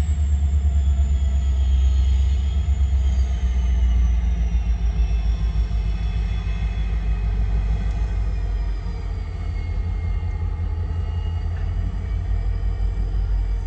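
Diesel freight locomotive rumbling low and steadily, with a faint high whine that slowly falls in pitch; the rumble eases a little about halfway through.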